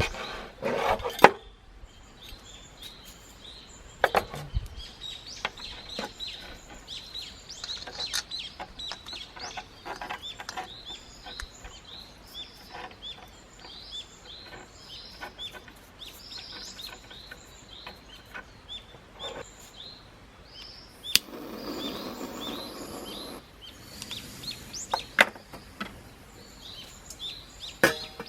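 Wild birds chirping and singing all through. Over the birdsong come a few sharp knocks and clinks, and about two-thirds of the way in, a hiss that lasts about two seconds.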